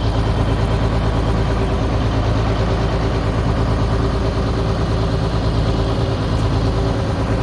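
Freshly rebuilt Mercedes diesel engine of a Claas Lexion 460 combine idling steadily, just after its first start following the rebuild.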